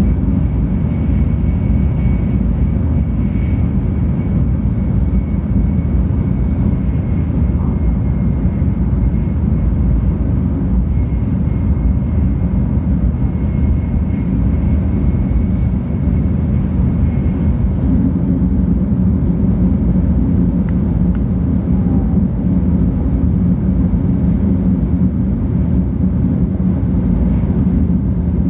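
Inside the passenger cabin of a 700 series Shinkansen train running on the line: a steady low rumble of the train in motion, with a faint high steady whine over it.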